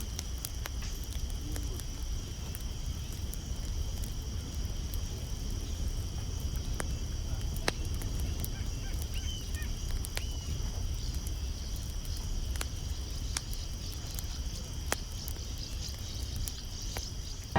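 Steady high-pitched chorus of insects, with scattered faint clicks and a low rumble underneath.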